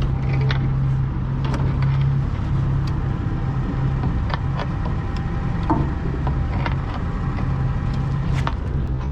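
An engine running steadily with a low, even hum, with scattered light clicks and knocks over it.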